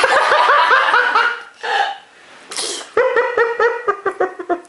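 A high-pitched voice laughing in quick, repeated ha-ha pulses, in two runs with a short breathy burst between them.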